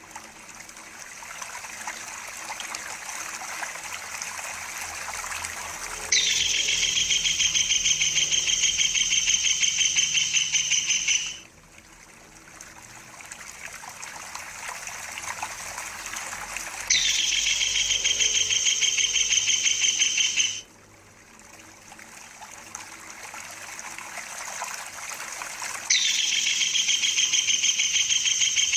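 Tengkek udang kingfisher giving a high, rapid rolling trill in three bouts of about four to five seconds each, the first starting about six seconds in and the last running on at the end. Between the bouts, water trickles and swells.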